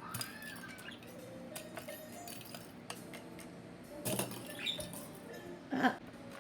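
Pet budgerigars chattering softly among small metallic clinks and ticks, with two louder short chirps, one about four seconds in and one near the end.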